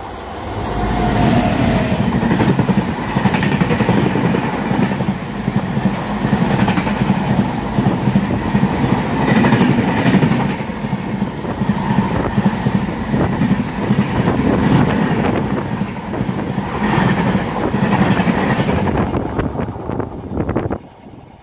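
Train running on the track with steady wheel clatter and rumble; the noise falls away sharply near the end.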